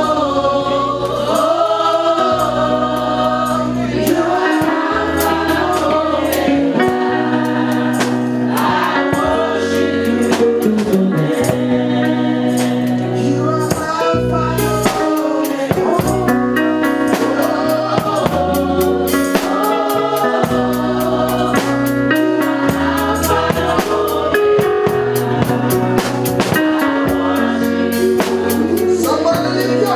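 Live gospel worship music: voices singing over a band, with held bass notes and percussion keeping a steady beat.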